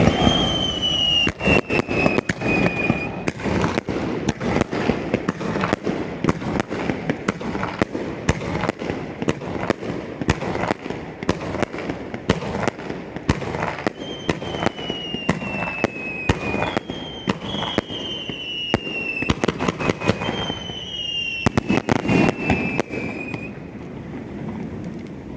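Fireworks going off in a rapid, dense barrage of sharp bangs, with several high whistles that slide down in pitch over a second or two each. The bangs thin out near the end.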